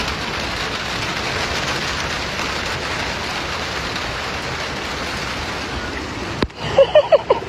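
Heavy monsoon rain pouring down in a steady hiss. It cuts off abruptly about six and a half seconds in, and a brief burst of a voice follows.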